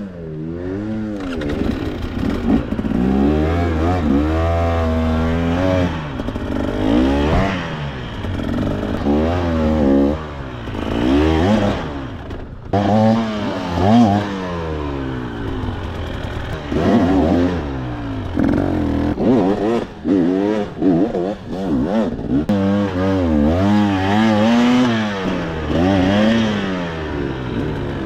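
KTM two-stroke enduro dirt bike engine revving up and down over and over as the throttle is worked on and off through technical terrain, with some clatter.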